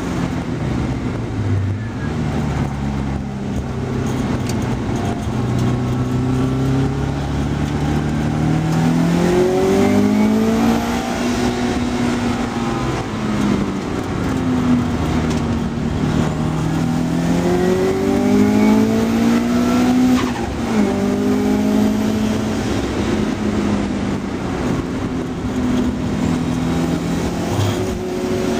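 Car engine heard from inside the car on a race circuit, driven hard: the engine note climbs twice under acceleration and drops back in between, over steady road and wind noise.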